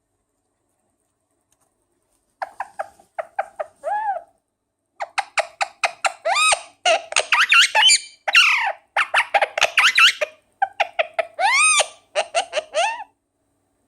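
Indian ringneck parakeet chattering in quick runs of short notes broken by rising squeaks, starting a couple of seconds in and stopping shortly before the end.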